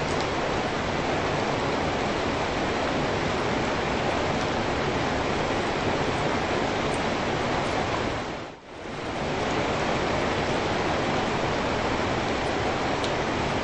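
Steady rain falling, an even dense hiss. About two-thirds of the way through it dips sharply for a moment and swells straight back.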